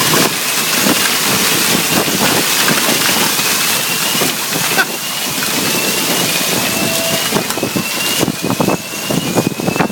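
Heavy hail pelting down: a dense hiss of hail and rain with many sharp impacts. Behind it a fire alarm sounds a short rising sweep, repeating a little more than once a second.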